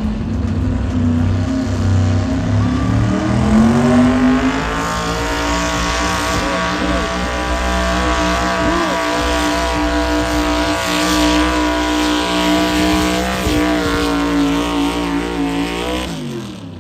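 Pulling vehicle's engine under full load while dragging the weight sled. Its revs climb over the first few seconds, hold high and steady through the pull, then drop off and cut out near the end.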